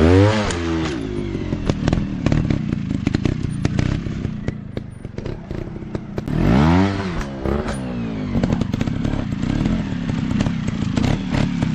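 Single-cylinder dirt bike engine revving in two bursts, pitch climbing and dropping back, one at the start and one about six and a half seconds in, with a rough lower running note and many short knocks and clatter in between.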